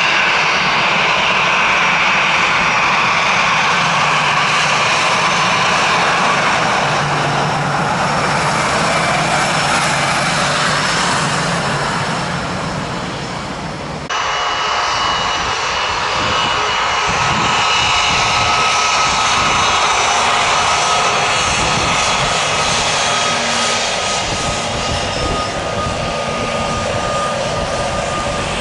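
Jet engines of airliners taxiing, a steady whine with several high tones. About halfway through it changes abruptly to another jet's whine with different tones.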